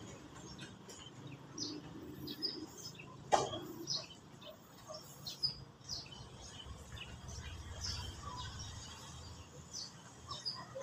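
Small birds chirping over and over, short high calls scattered throughout. A single sharp knock sounds about three seconds in.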